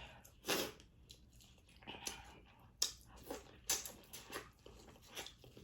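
Close-up mukbang eating sounds of a seafood boil: irregular wet chewing and biting, with sharp crunches and tearing as seafood is pulled from its shell. The loudest bursts come about half a second, three seconds and four seconds in.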